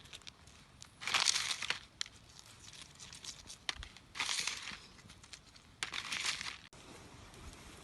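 Three short bursts of crinkling rustle, with scattered small clicks between them.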